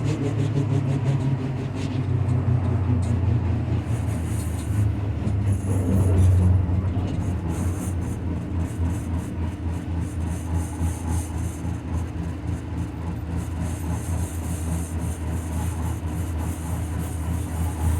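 Leoliner NGT6 tram running, with a low hum and a repeated rhythmic knock from a wheel with a flat spot. The knocking comes through more plainly in the second half.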